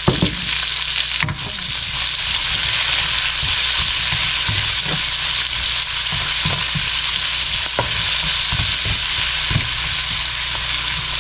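Diced onion and minced garlic sizzling in hot oil in a wok as they sauté, with a steady frying hiss. A wooden spatula stirs them, scraping and knocking against the pan every second or so.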